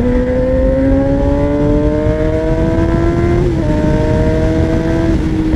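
Motorcycle engine pulling under acceleration, its pitch rising steadily, dropping at an upshift about three and a half seconds in and then climbing again, over wind rush on the microphone.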